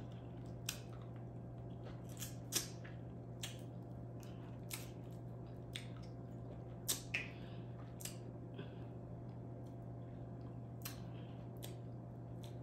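A person eating close to the microphone: scattered soft clicks and smacks of chewing and handling food, the sharpest about two and a half seconds in and two more near seven seconds, over a steady low hum.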